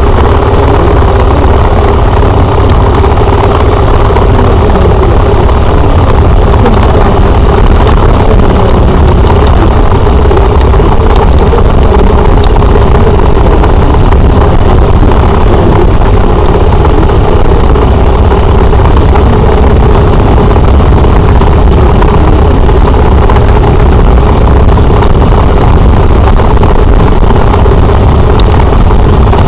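Motorcycle engine running at a steady speed while riding, with heavy wind rumble on the microphone.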